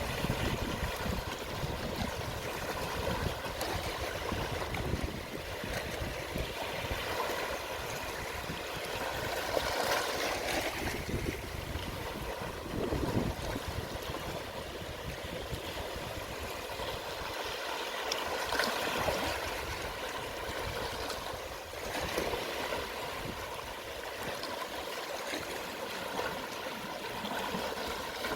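Small, gentle sea waves washing and lapping on the shore of a calm sea at low tide, a steady wash that swells a little every few seconds.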